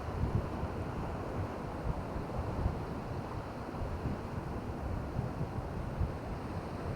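Wind buffeting the microphone in irregular low gusts over a steady wash of surf.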